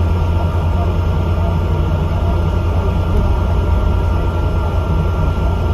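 Bus engine and drivetrain running steadily: a deep, even rumble with a faint steady whine above it.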